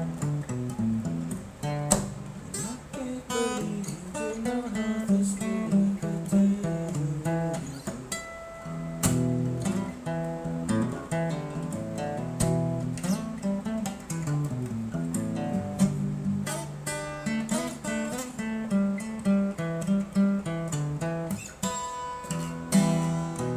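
Acoustic guitar playing a blues: picked notes and strummed chords over a moving bass line, continuous and rhythmic.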